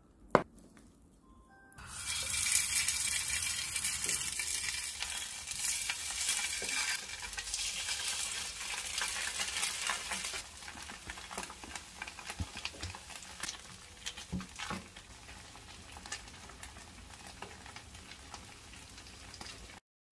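A cleaver chops once through a stack of Spam and tofu onto a cutting board. About two seconds in, Spam-and-tofu stacks go into hot oil in a frying pan and sizzle, with scattered pops. The sizzle eases to a lower, steady level about halfway through.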